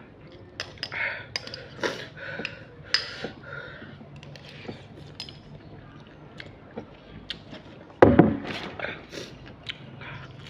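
Eating from a dish: a utensil clicking and clinking against the bowl or plate in short irregular taps, with one louder thump about eight seconds in.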